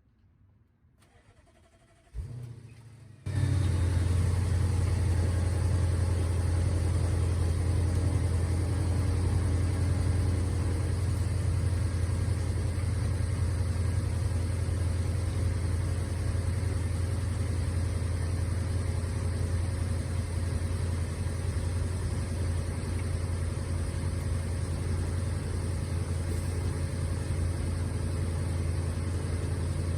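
Stock Audi 4.0 TFSI twin-turbo V8 of a 2013 A8L cold-starting: a brief crank about two seconds in, the engine catching a second later and settling into a steady, fast cold idle that eases slightly lower after several seconds.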